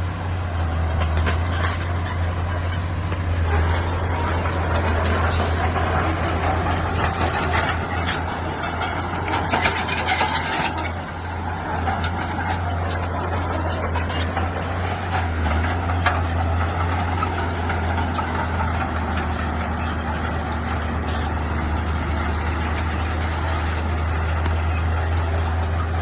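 Bulldozer's diesel engine running steadily at work, a deep drone with frequent metallic clicks and clanks over it throughout.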